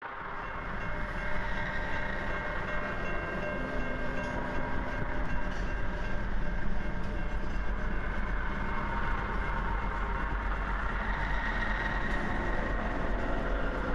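Train rumbling: a steady low rumble with several held high tones over it, changing little throughout.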